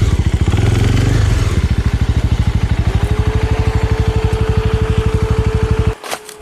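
Small Suzuki motorcycle's engine running with an even, rapid pulse, then cutting off abruptly about six seconds in. A steady thin tone joins about halfway through and carries on after the engine stops.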